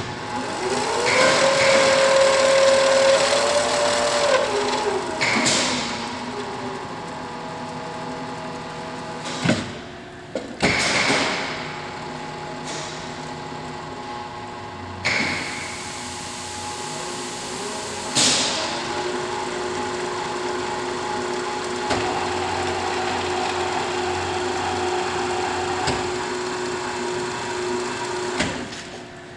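1800 lb Passerini welding positioner's table rotation drive running under foot pedal control: a steady motor whine that rises in pitch about a second in and drops away a few seconds later, then a lower steady whine through most of the second half. Several sharp clunks and clicks fall in between.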